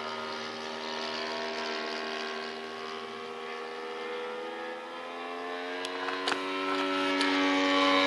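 Saito FG-14 four-stroke gasoline engine of an RC model plane running in flight, a steady engine drone. About five seconds in its pitch rises and it grows louder, with a couple of sharp clicks around six seconds.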